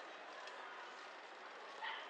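A dog gives one short, sharp bark near the end, over steady background street noise.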